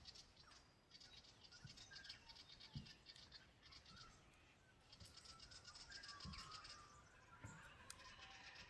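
Faint birdsong at a farm: scattered short chirps and stretches of a rapid, high, pulsing trill, with a few soft low thumps.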